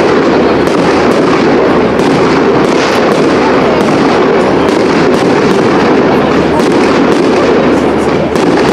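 Professional fireworks display: aerial shells bursting in a rapid, unbroken run of sharp bangs that blend into a steady loud din.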